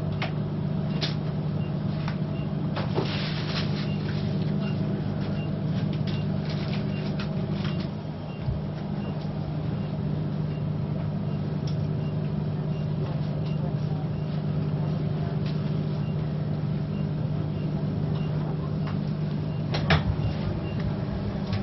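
Steady low machinery hum, with scattered light clicks and knocks from handled equipment, a sharper knock near the end.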